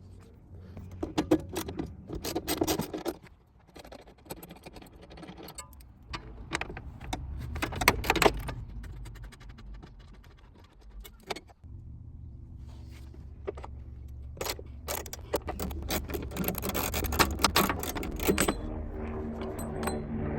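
Metal tools and parts clinking and rattling in a string of irregular sharp clicks and knocks. A steady low hum joins in from about halfway through.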